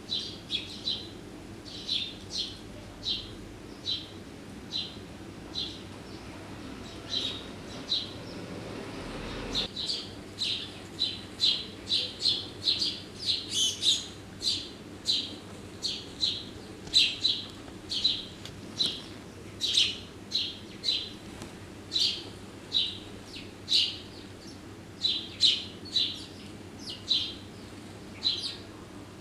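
Small garden birds chirping: short, sharp chirps repeated about one to three a second, crowding closer together for a few seconds about a third of the way in.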